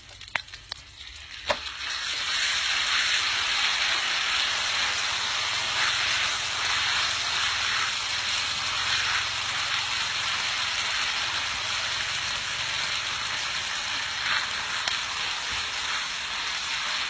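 Food frying in a hot pan: a steady, crackling sizzle that starts suddenly about a second and a half in, after a couple of light clicks.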